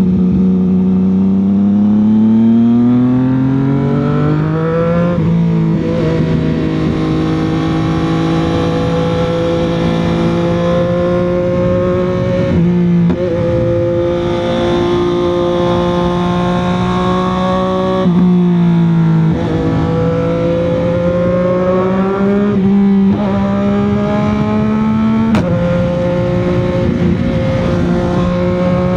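CFMOTO 675 motorcycle's inline three-cylinder engine and exhaust under way, the pitch climbing steadily under acceleration in the first few seconds, then breaking and stepping abruptly several times through the rest of the ride as gears are changed and the throttle is opened and closed.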